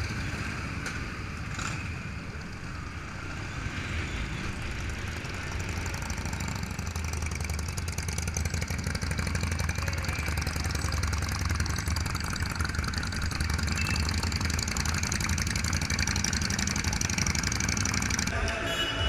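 Motorcycle engines running, growing louder over the first several seconds and then holding steady.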